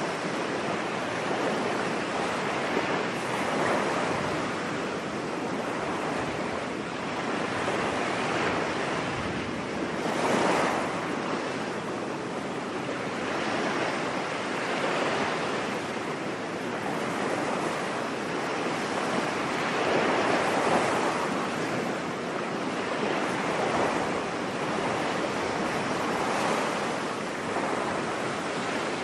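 Ocean surf breaking on a beach: a steady wash of waves that swells and falls back every few seconds, with the biggest swells about ten and twenty seconds in.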